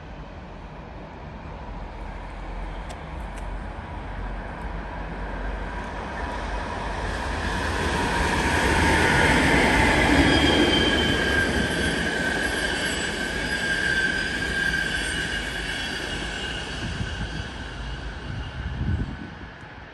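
A train passing through the railway station, its noise building to a peak about halfway through and then fading away. Through the loudest part runs a high, steady wheel squeal.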